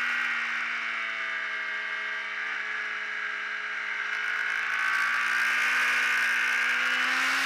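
Ducati Streetfighter's V-twin engine running at high revs on track. Its pitch and loudness ease off slightly, then climb again about five seconds in as the bike drives out of the corner.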